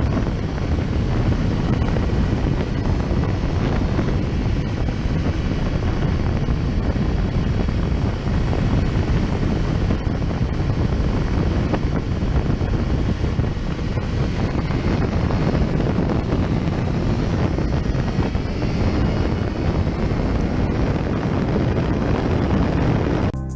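Heavy wind noise battering the microphone of a camera on a motorcycle riding at speed, with engine and road noise underneath.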